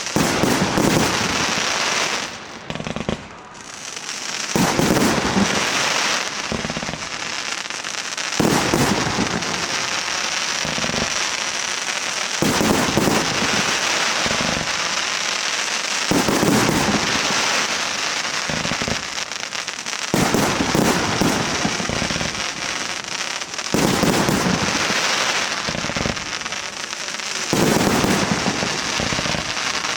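Fireworks going off continuously, a dense crackle that surges louder about every four seconds as new shots break.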